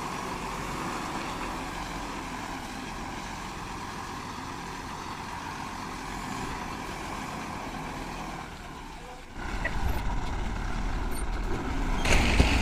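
Diesel lorry running, steady at first; about nine seconds in the sound jumps to a louder, deeper engine, and near the end a hissing rush comes in.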